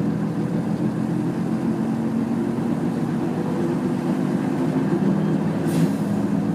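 Nissan Diesel UA city bus under way, heard from inside the cabin: its diesel engine and drivetrain running steadily at speed, with a short faint tick about five and a half seconds in.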